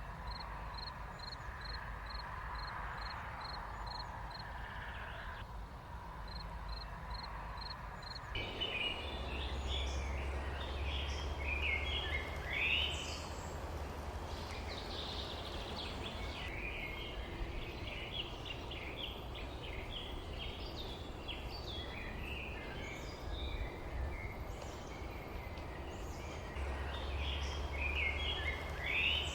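Songbirds chirping over a steady low rumble of outdoor noise. At first a single high note repeats about four times a second. About eight seconds in the sound changes abruptly to many birds twittering together.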